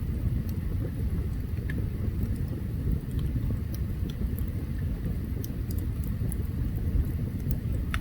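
Open campfire burning: a steady low rumble with scattered small, sharp crackles and pops.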